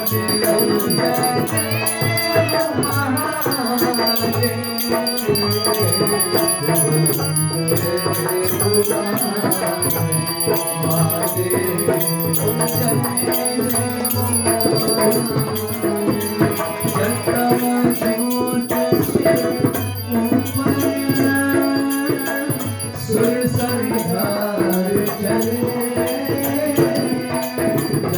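Hindu arti devotional song: voices singing a continuous melody over instrumental accompaniment, with steady rattling hand percussion throughout.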